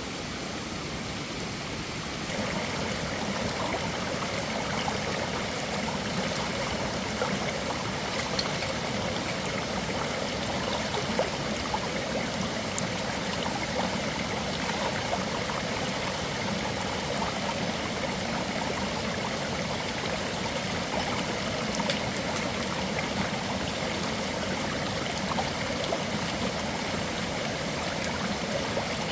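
Stream of running water, a steady rush that gets louder about two seconds in.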